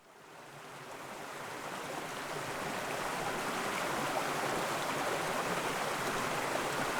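Steady rushing of falling water from a rainforest waterfall, fading in over the first couple of seconds and then holding even.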